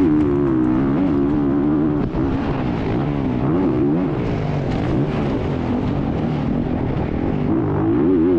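Motocross dirt bike engine revving up and down as it is ridden, its pitch rising and falling every second or so.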